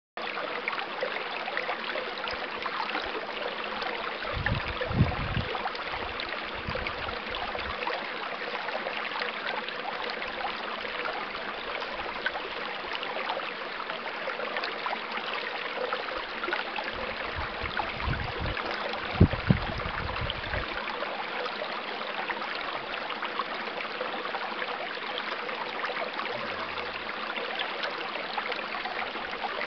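Flowing stream water, a steady rush and trickle. Low rumbles come about five seconds in and again around nineteen to twenty seconds in.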